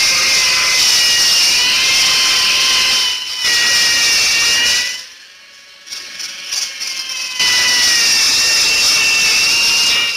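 A handheld workshop tool running with a strong hiss and a high, wavering whine. It runs in two long spells, cut off about five seconds in and started again a couple of seconds later.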